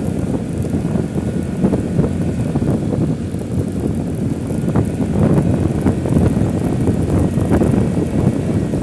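Wind buffeting the microphone: a loud, continuous low rumble that flutters unevenly.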